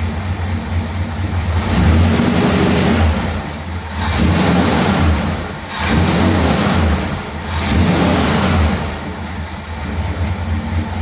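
1957 Ford Thunderbird's Y-block V8 running on a two-barrel carburettor, idling with the throttle blipped about four times, each rev swelling and falling back to idle. It runs smoothly on a fresh set of spark plugs.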